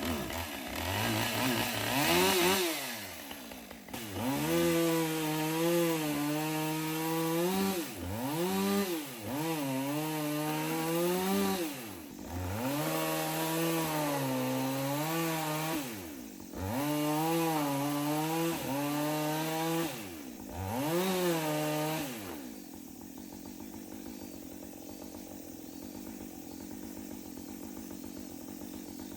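Two-stroke chainsaw cutting into the trunk of a dead poplar tree. It is revved up about six times, each burst sagging a little under load and falling back between cuts. After about twenty seconds the revving stops and a quieter steady sound is left.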